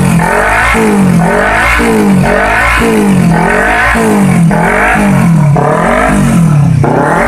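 Kawasaki Ninja 250 motorcycle engine through an aftermarket racing exhaust, revved again and again in quick blips, about two a second, the pitch climbing and dropping each time.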